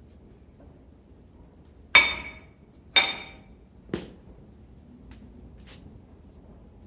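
Three sharp metal-on-metal knocks about a second apart, the first two loudest, each ringing briefly with a bright metallic tone, then a fainter clink or two.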